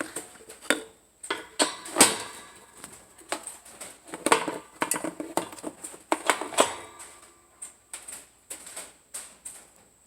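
Irregular clicks, taps and light clattering of hands handling and moving things, a few sharper knocks among them.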